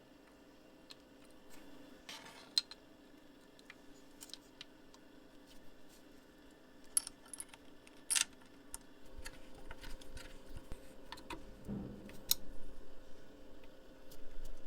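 Small metal parts being handled on a work surface: scattered sharp clicks and light clinks, getting busier in the second half with a soft thud near the end, over a faint steady hum.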